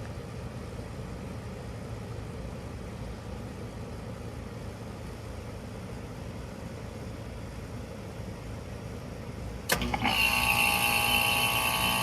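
Rheem Endeavor RP14 heat pump running its defrost cycle: the compressor hums steadily. Near the end there is a sharp clunk, and then a sudden loud hissing rush with whistling tones, typical of the reversing valve shifting and refrigerant surging through it.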